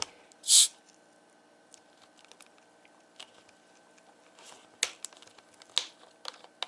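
Handling of a plastic bottle of Coca-Cola Orange Cream: a short hiss about half a second in, then scattered small clicks and crinkles as the bottle and cap are handled.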